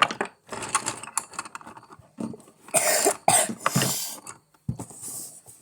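A person coughing, with two strong coughs about three seconds in among smaller rough bursts.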